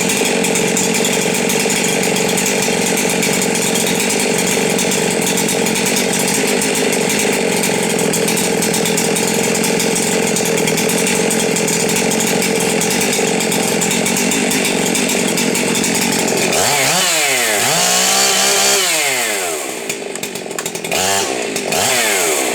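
Husqvarna 372 XP two-stroke chainsaw running loud and steady at high revs for about sixteen seconds. It then drops off and revs up and down several times.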